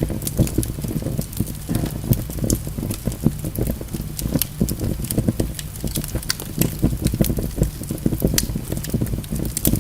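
Wood fire burning in a fireplace, with irregular sharp crackles and pops from the logs over a steady low rumble of flame.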